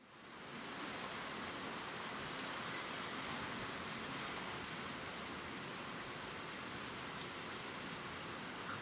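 Gentle rain pattering steadily on leaves, a soft even hiss with faint scattered drop ticks, fading in over the first second.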